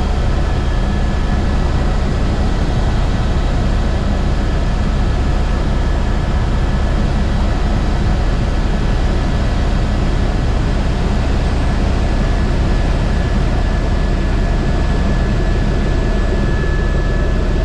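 Airbus H125 helicopter running in flight, its rotor and single turbine engine making a loud, steady drone with a thin constant whine over it.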